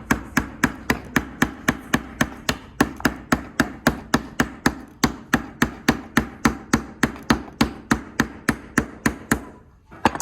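A hammer rapidly and steadily tapping a nail into wood, about four strikes a second, stopping near the end. The nail is being driven through a piece of rope into the neck of a wooden bird.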